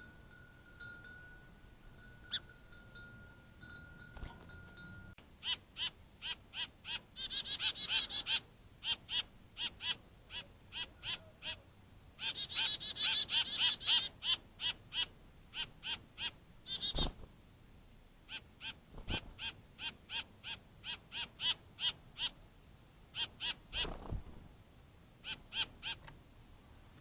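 Backyard songbirds calling with a long run of sharp, repeated notes, about two a second, broken by two denser flurries of high notes. A couple of dull thumps fall in the second half.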